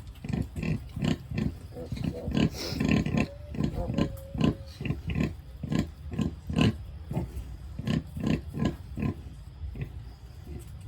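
A pig grunting in a quick, steady run of short low grunts, a few each second.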